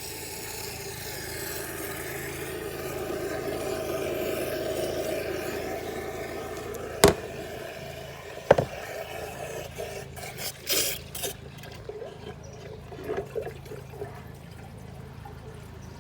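Water running in a toilet, swelling and then fading over the first several seconds, followed by two sharp knocks about a second and a half apart and some lighter clattering.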